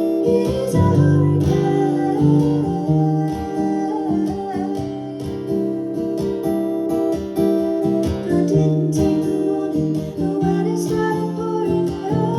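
Live acoustic guitar music: plucked guitar notes ringing on in a continuous folk accompaniment, with a female voice singing in places.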